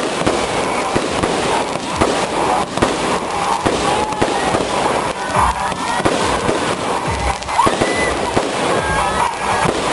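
Fireworks going off in a continuous barrage of rapid bangs and crackles.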